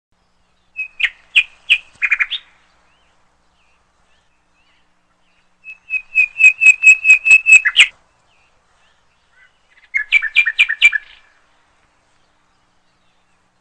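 Bird song: three short phrases of rapid, repeated chirps, the middle one the longest at about five notes a second, with silence between phrases.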